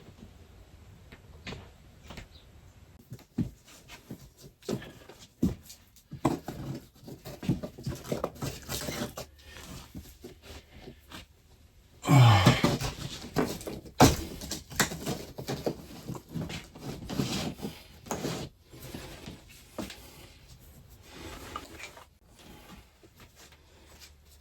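Electrical cable being pulled up through a ceiling from the attic: scattered rustles, scrapes and knocks, with a louder rustling burst about halfway and a sharp knock just after it.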